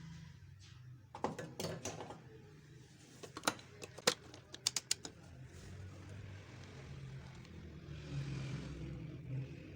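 A run of sharp clicks and knocks, as of tools and parts being handled during a compressor repair: a cluster about a second in and another around four seconds in, over a low steady hum.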